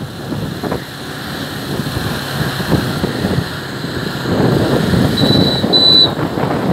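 Motorcycle running along the road with wind buffeting the microphone, growing louder about four seconds in. Two short high-pitched beeps sound near the end.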